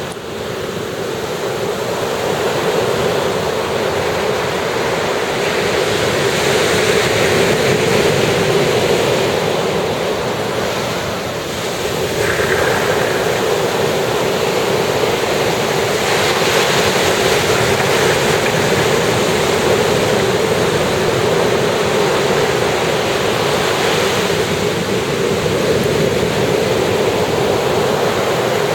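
Ocean surf on a beach, a continuous wash of breaking waves that swells and eases every several seconds.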